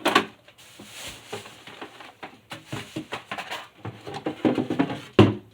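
Food containers being handled and set down as a refrigerator is emptied: a run of small knocks and clatters, with a sharper knock about five seconds in.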